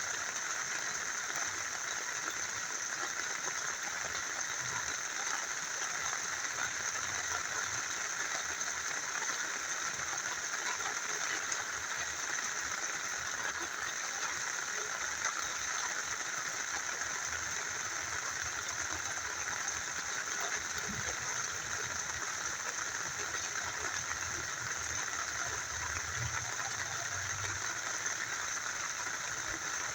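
Rain falling together with a small river flowing, a steady, even rush of water.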